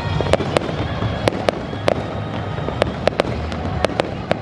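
Fireworks going off: a quick, irregular string of sharp cracks, about a dozen in four seconds, over a steady low rumble.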